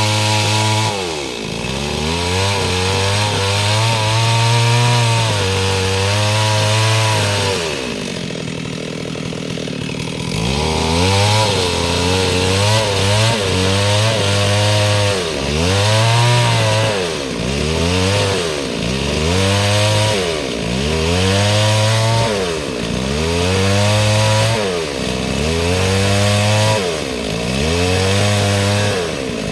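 STIHL MS 382 two-stroke chainsaw cutting mahogany lengthwise, its engine speed sagging under load and picking up again roughly every two seconds. It drops to a lower steady speed for a couple of seconds about eight seconds in.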